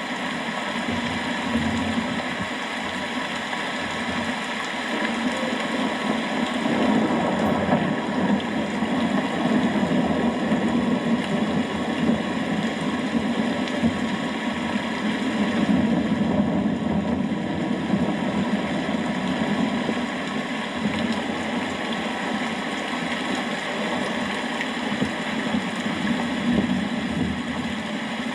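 Steady rain falling, with a low rumble underneath that slowly swells and eases.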